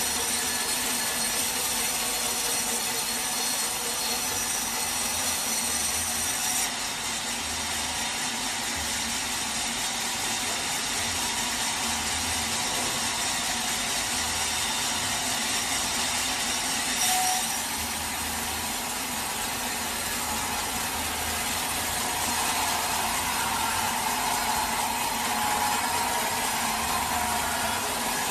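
Sawmill saw cutting through a teak log, a steady dense noise of blade in wood that shifts abruptly twice along the way.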